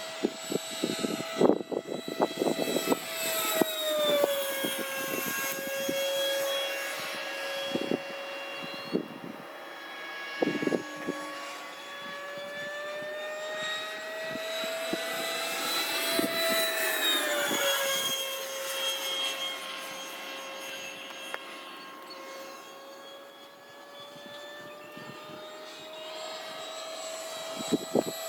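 Electric 90 mm ducted fan of a Freewing F-18 RC jet whining steadily in flight, its pitch dropping as the plane passes, about four seconds in and again near the middle. Gusts of wind thump on the microphone in the first few seconds.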